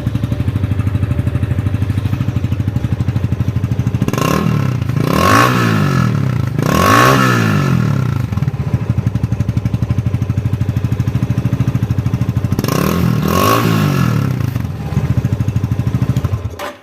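Yamaha FZ25 single-cylinder engine idling through an Akrapovic slip-on exhaust, blipped several times in three short bursts of revving, then stopping abruptly near the end.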